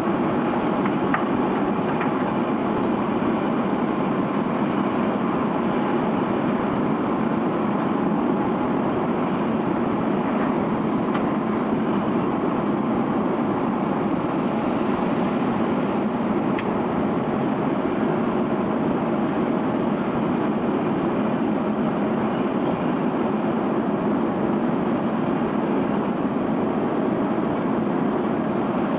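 A sand ship's unloading conveyor belt running, carrying sand off the vessel, heard as a steady dense noise with no beat.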